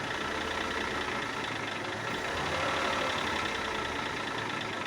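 Chevrolet Lacetti's engine running under a little throttle, turning the front wheel in gear, with a rattle coming from under the engine that the mechanic takes for a worn inner CV joint rather than the wheel bearing.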